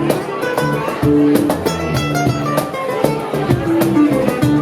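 Live soul band playing an instrumental passage: held guitar notes over bass, with regular drum hits.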